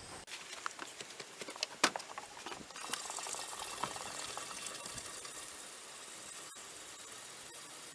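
Water pouring from a 5-gallon jug into an outdoor furnace's water tank. A few knocks and clicks in the first three seconds, then a steady splashing hiss that slowly fades.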